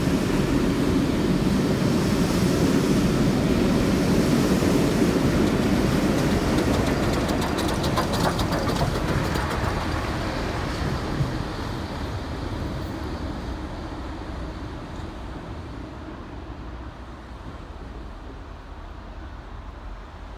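Steam-hauled passenger train rolling past with a heavy rumble and a run of wheel clicks over the rail joints, then fading steadily as it draws away.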